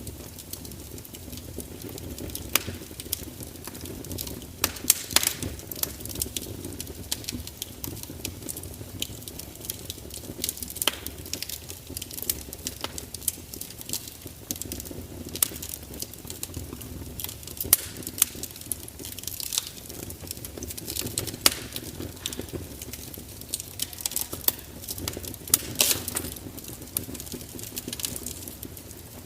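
Fire crackling steadily, with irregular sharp pops and snaps over a low, even rush of flame.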